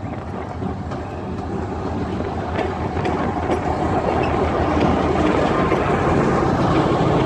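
2TE10M twin-section diesel locomotive running light, its 10D100 two-stroke opposed-piston diesel engines droning and its wheels clicking over the rail joints. It grows steadily louder as it approaches.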